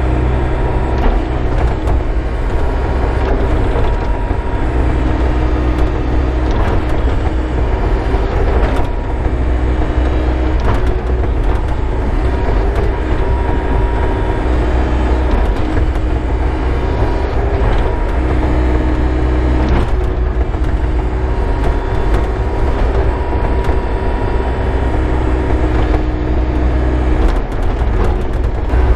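Excavator's diesel engine running steadily, a low hum with a few whining tones that shift in pitch now and then as it works, and occasional short knocks.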